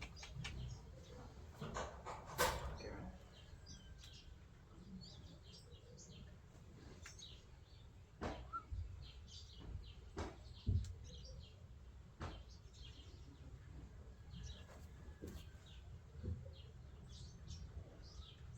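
Small birds chirping and twittering in the background, with a low rumble underneath and a few sharp knocks scattered through.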